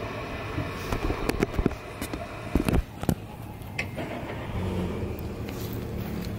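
Car engine running, a low steady hum that comes up about two-thirds of the way in, with a few sharp knocks and clatters before it.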